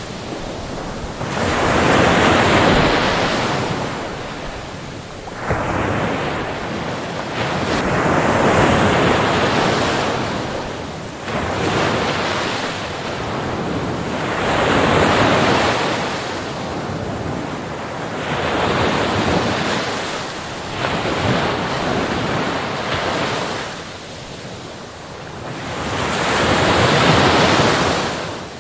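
Ocean waves breaking on a beach, each wash of surf swelling and falling away every four to six seconds in a steady, unbroken rhythm.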